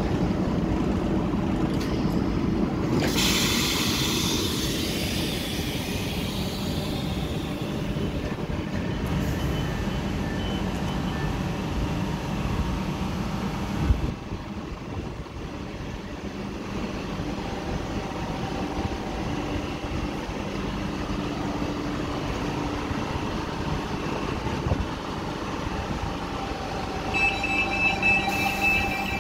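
Cercanías electric commuter train standing at a platform, its equipment humming steadily. A hiss comes about three seconds in, a single clunk about halfway through as the doors open, and short repeated high beeps near the end.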